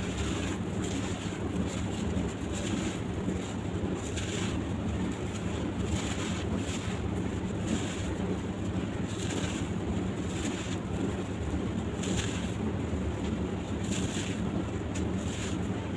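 Soft sand-cement chunks crumbling and crunching, in short crackly bursts about once a second, over a steady low rumble like wind on the microphone.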